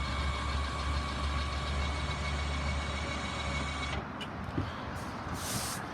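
Electric motors of the power-folding sunbed backrests humming steadily as they lower the backrests, then stopping abruptly about four seconds in.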